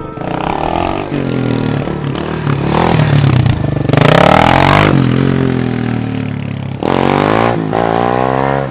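Off-road vehicle engine revving, its pitch rising and falling repeatedly, loudest about four seconds in and climbing again near the end.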